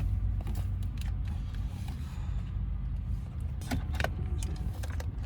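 A few small sharp clicks and taps of hand tools prying at the dashboard's plastic trim, over a steady low rumble.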